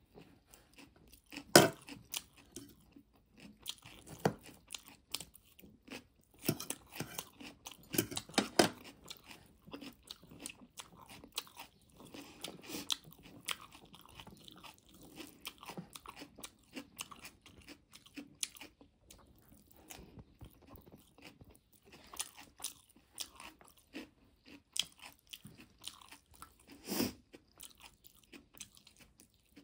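Close-up mouth sounds of a person chewing and biting instant noodles eaten by hand: a run of irregular wet clicks and smacks, loudest about a second and a half in, around eight seconds and again near the end.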